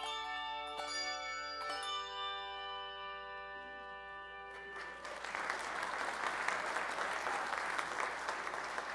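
Bells ringing the last notes of a piece, each struck tone ringing on and dying away, then the congregation applauding from about five seconds in.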